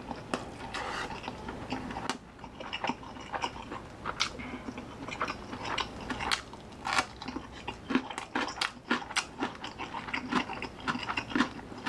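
Close-up chewing and crunching as a person eats, with many short, irregular clicks and crunches.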